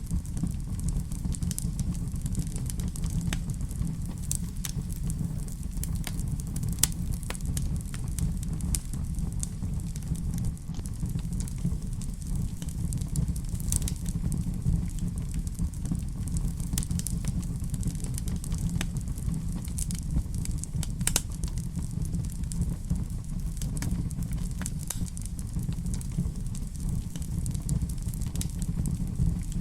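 Wood fire burning in a fireplace: a steady low rumble with frequent irregular crackles and pops scattered throughout.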